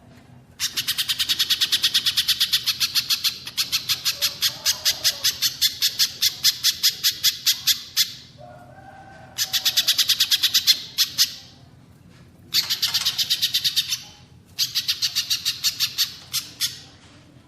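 Small songbird calling in fast runs of sharp, high repeated notes, about nine a second. There is one long run, then three shorter ones with brief pauses between them.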